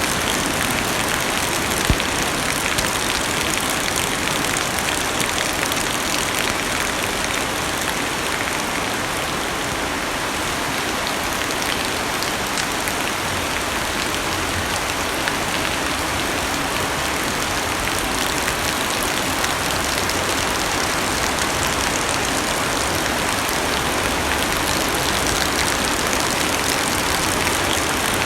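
Heavy rain falling on a car's roof and glass, heard from inside the cabin: a dense, steady hiss with a sharper drop tap now and then, one about two seconds in.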